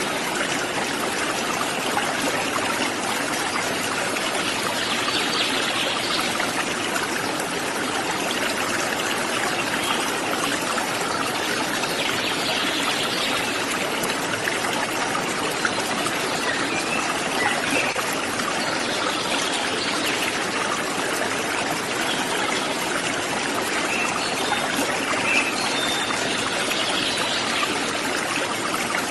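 Small waterfall splashing and rushing in a steady, unbroken flow.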